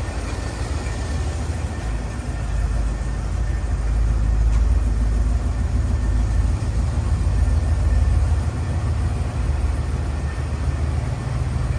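Car engine idling steadily, a low, even running sound.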